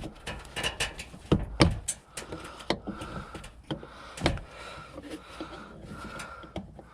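Sharp plastic clicks and knocks as a dashboard switch is pried and worked loose from its housing, with a faint short tone repeating about every three quarters of a second in the background.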